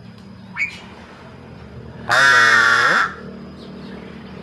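A pet crow gives a short squeaky note near the start, then one long, harsh caw about two seconds in.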